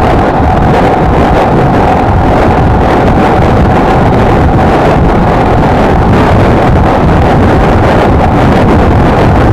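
Honda XLR125R's single-cylinder four-stroke engine running steadily on the move, with heavy wind buffeting on the microphone.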